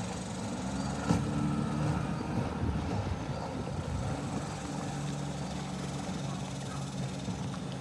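30-horsepower Mercury outboard motor on a 14-foot aluminum V-bottom boat running at speed on the water, its engine note bending up and down. A sharp click about a second in.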